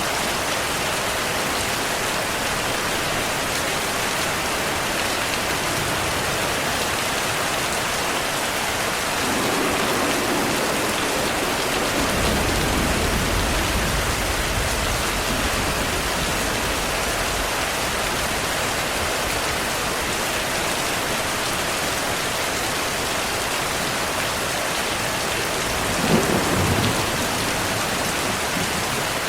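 Steady heavy rain with thunder: a low rolling rumble about a third of the way in, and a sharper crack of thunder near the end that rumbles on briefly.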